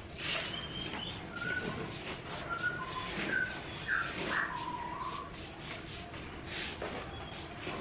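Birds chirping: a series of short whistled notes over the first five seconds, one of them gliding, over a steady outdoor background.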